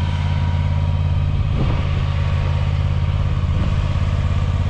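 John Deere Z530R zero-turn mower's engine running steadily.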